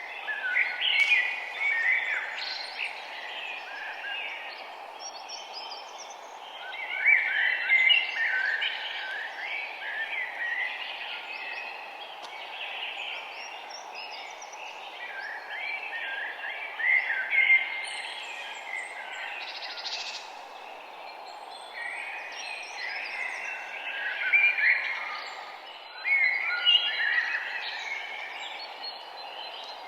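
Songbirds singing in short chirping phrases that recur every few seconds, over a steady hiss of outdoor background noise.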